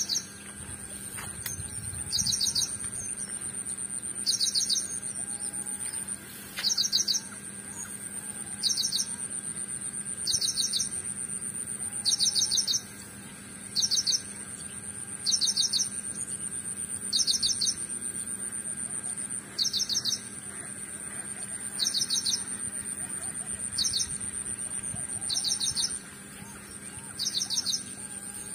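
A bird repeats a short, rapid trill of high notes about every two seconds, over a steady high-pitched whine.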